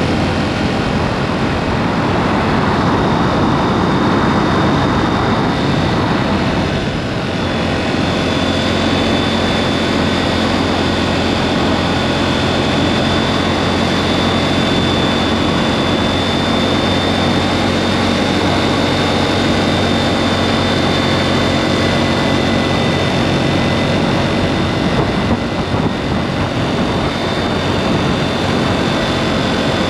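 KTM 790 Duke's parallel-twin engine running through an aftermarket SpeedPro Cobra SPX exhaust, holding a fairly steady speed, with a brief dip in level about seven seconds in.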